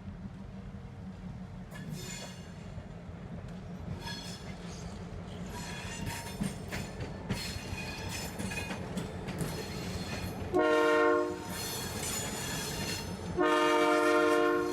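Freight train rumbling, growing slowly louder, with faint high wheel squeal; the locomotive's horn sounds a short blast about two-thirds of the way in and a longer blast near the end, the loudest sounds here.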